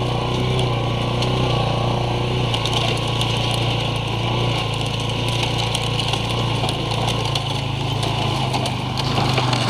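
ATV engine running at a steady speed, a constant low drone without revving.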